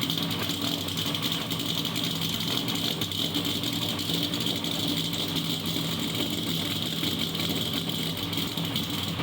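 GMC Sierra's 6.2-litre V8 with a Texas Speed stage 3 camshaft idling steadily on its first cold start, running without any tune for the new cam.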